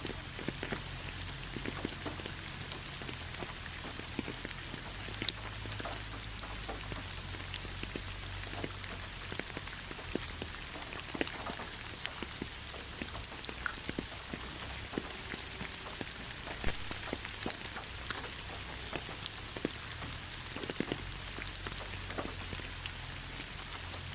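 Steady rain falling: an even hiss with many individual drops ticking at irregular intervals.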